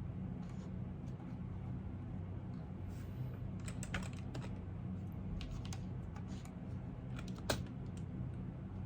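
Typing on a computer keyboard: keystrokes come in short scattered runs starting a few seconds in, with one louder keystroke near the end, over a steady low hum.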